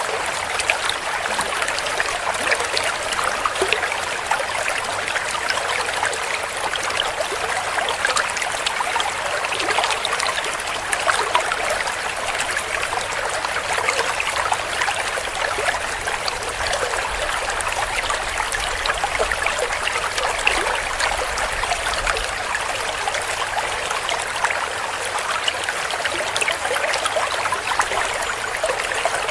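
A shallow stream running and gurgling over rocks, with small trickles and splashes: a steady, even rush of water.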